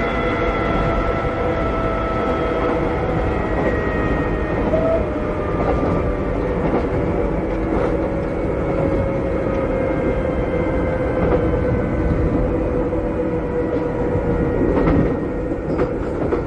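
Interior running sound of a Keikyu old 600 series electric car: the whine of its Toyo Denki traction motors and gears over a steady wheel rumble. A few rail-joint clacks come through, and the whine slowly falls in pitch as the train slows.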